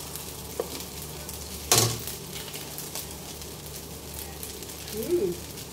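Fried rice sizzling in a stainless steel wok, a steady hiss, with one sharp clack of a utensil against the wok about two seconds in.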